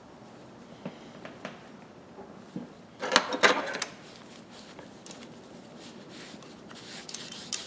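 Grooved slip-joint pliers being handled and their handles rubbed with wax: a few light clicks, then a short stretch of scratchy rubbing and clicking about three seconds in, and a couple more clicks near the end.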